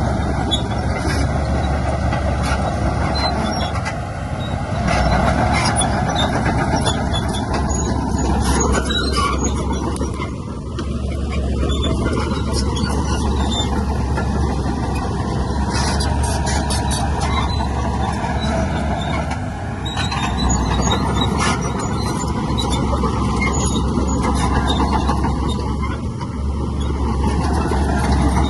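Heavy diesel earthmoving machinery running steadily, its level dipping briefly every several seconds, with scattered clicks and metallic knocks over the engine noise.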